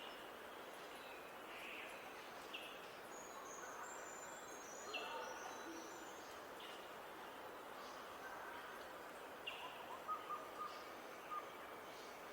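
Several wild birds singing and calling over a steady hiss: a short call repeats every second or two, with a brief high twittering about a third of the way in and a run of short, clear notes near the end.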